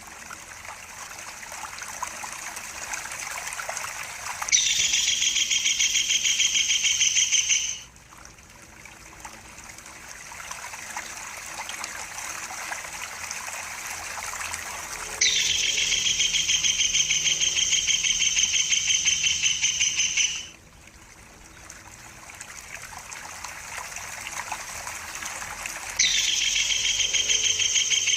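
Tengkek buto kingfisher calling in long, rapid chattering bouts of several seconds each, three times, over steadily trickling water.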